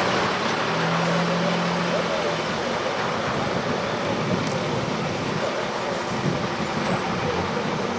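Steady rushing outdoor background noise with faint, indistinct voices, and a brief low hum from about one to two and a half seconds in.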